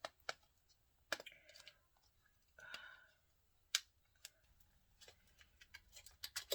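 Sharp, separate plastic clicks and taps from handling a makeup compact and brush, with a short rustle about halfway through and a quicker run of clicks near the end.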